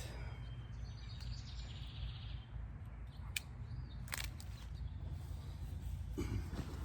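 Outdoor garden ambience: a steady low rumble with a small bird twittering in quick high chirps for a second or so near the start, then a couple of sharp clicks.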